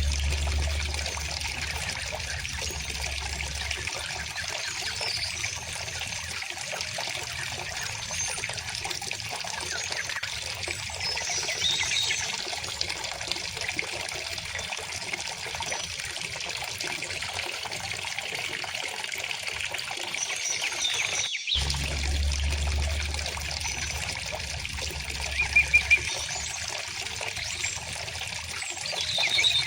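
A shallow river or stream trickling and babbling steadily, with a few short bird chirps over it. The water sound breaks off for an instant a little past two-thirds of the way through, then resumes with a low rumble for a few seconds.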